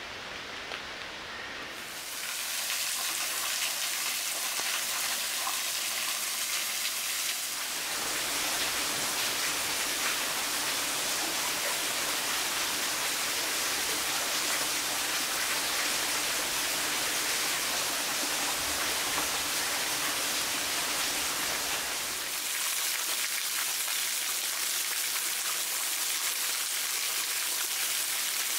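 Steady rain falling in a forest, an even hiss. Its character changes abruptly about two seconds in, at about eight seconds and again at about twenty-two seconds.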